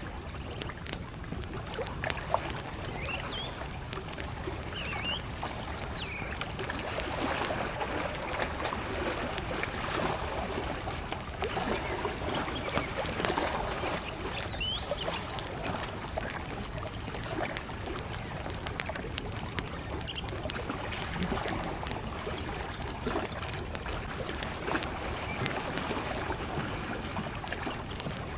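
Small lake waves lapping at the shore, with a campfire crackling and popping in many small sharp clicks. A few short bird chirps sound now and then in the distance.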